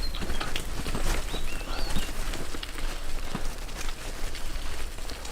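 Bicycle rattling and clattering as it rides over a rough, bumpy off-road track, with wind rumbling on the microphone. A bird chirps briefly near the start and again about two seconds in.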